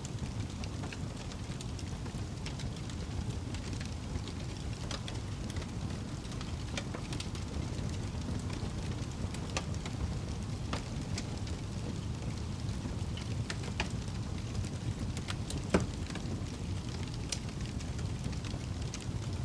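Wood fire burning in a fireplace: a steady low rumble of flames with scattered crackles and snaps, and one loud pop about three-quarters of the way through.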